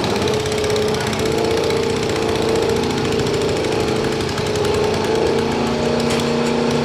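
Turbocharged diesel pickup truck engine running hard at steady high revs under load in a truck pull, its pitch holding level with a slight waver.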